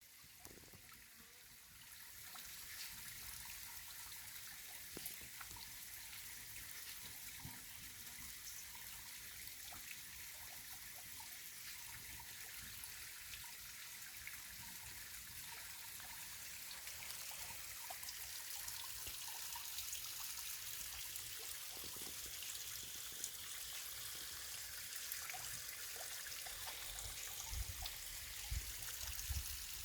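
Mountain stream water flowing and trickling over rocks in a steady hiss, fading in over the first two seconds. A few low bumps come near the end.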